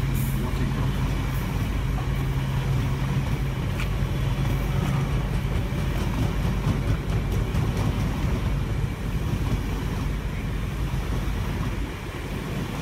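A freight train of bogie coal hopper wagons rolls steadily past, its wheels making a continuous rumble on the rails with a few faint clicks. A steady low hum runs under it for the first few seconds.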